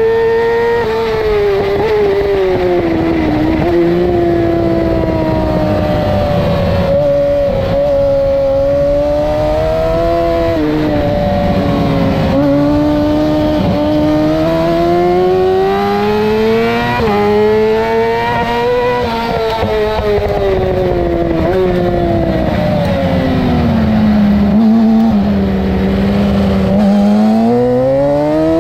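2008 Yamaha R6's 600 cc inline-four engine heard from on the bike at racing revs. Its pitch climbs with sharp steps as it shifts up and sinks as it shifts down and slows into corners, several times over. It falls to its lowest pitch a little before the end, then revs steeply back up.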